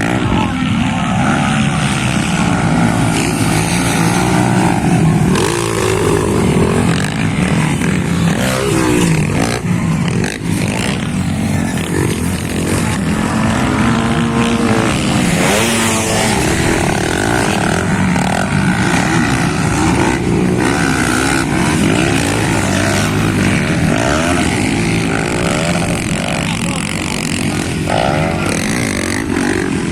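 Several motocross motorcycle engines running loud and continuous, their pitch rising and falling over and over as the riders rev and shift around the track.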